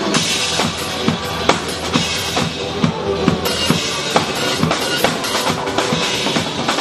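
Drum kit played along to a recorded song, with bass drum and snare strokes in a fast, steady beat over the backing music.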